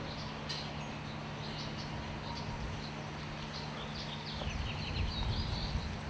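Small birds chirping with short, high chips scattered throughout, more of them a little after the middle. Under them is a steady low hum, with a low rumble coming up about four seconds in.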